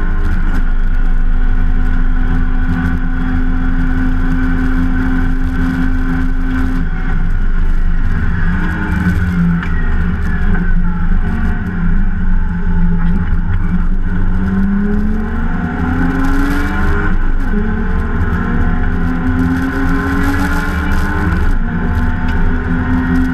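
Inside a BMW E30 325i race car, its straight-six engine runs under racing load. It holds high revs at first, and the pitch drops about eight seconds in as the driver lifts and brakes for a corner. It then climbs again in rising sweeps, with upshifts breaking the climb twice near the end.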